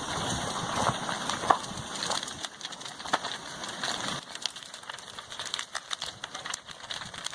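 Crackling and popping of a house burning as lava flows into it: a rushing noise for the first few seconds, then scattered sharp cracks.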